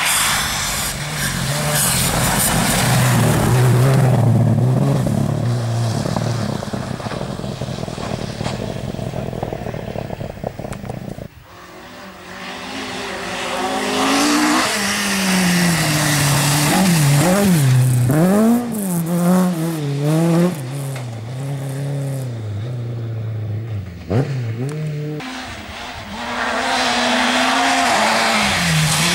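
Rally cars driven hard on a stage, engines at high revs with the pitch rising and falling through gear changes and lifts. About a third of the way in the sound cuts off suddenly and another car takes over, its revs swinging up and down repeatedly.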